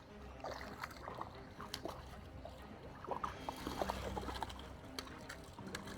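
Water splashing and sloshing at the creek's edge with scattered small clicks, as a hooked trout is brought in and landed.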